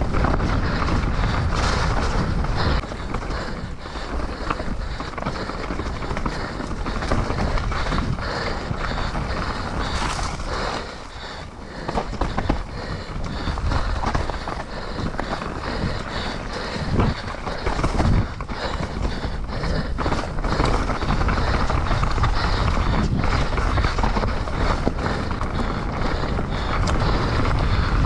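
Mountain bike ridden on a wet trail: a steady rush of tyre and wind noise with frequent knocks and clatters from the bike, easing off briefly about eleven seconds in.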